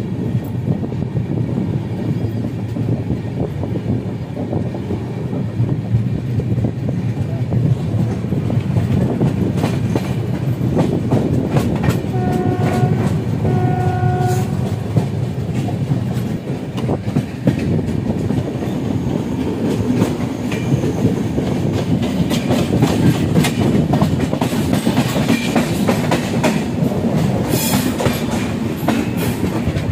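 Passenger train running, heard from aboard the coach: a steady rumble with wheels clicking over the rail joints. About twelve seconds in, a train horn sounds two short blasts, one right after the other.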